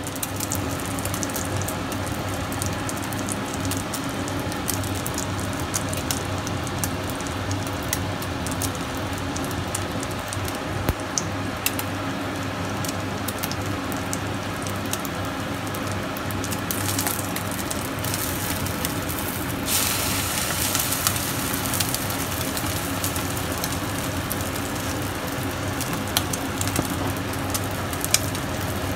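Oyster omelette sizzling in hot oil in a frying pan, a continuous fry with many small crackling pops. The sizzle swells louder for a couple of seconds about two-thirds of the way through, over a steady hum.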